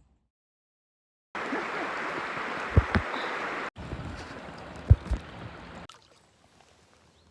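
Water running and trickling around a loaded canoe being paddled downriver, in short cut-together stretches after a second of silence. Two pairs of dull knocks, like a paddle striking the hull, come about three and five seconds in.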